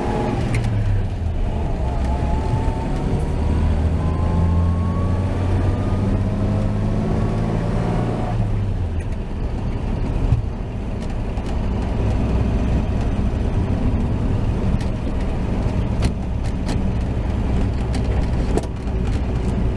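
1949 Chevy 3100's 235 inline-six running through its dual exhaust on the road. The engine note climbs steadily under acceleration for about eight seconds, drops, then holds level at a cruise, with light rattling clicks from an unmounted speaker box.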